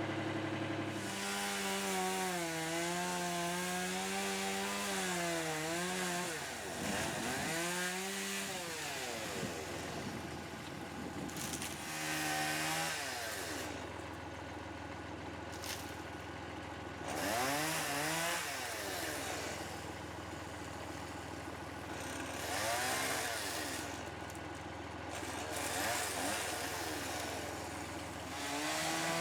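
Chainsaw revving in a series of bursts, its pitch dipping as the chain bogs down cutting into elm wood, with a steady engine idle underneath.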